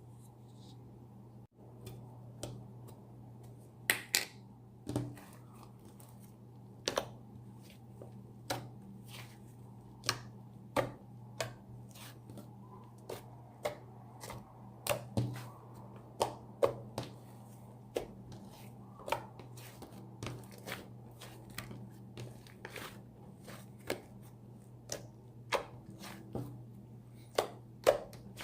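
Slime being pressed and worked by hand, giving irregular sharp clicks and pops, about one or two a second, over a steady low hum.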